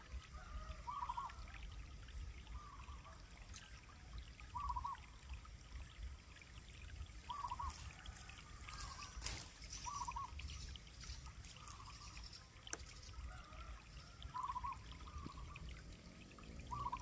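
A short animal call near 1 kHz repeated every couple of seconds, over a faint low rumble and a trickling, water-like hiss, with a few soft clicks about midway.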